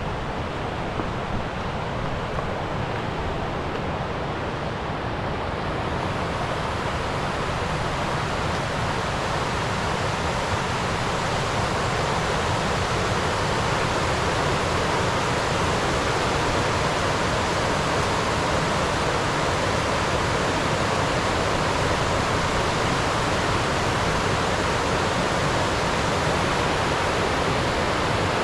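Rushing river water, a steady roar of flowing water that grows a little louder over the first several seconds and then holds.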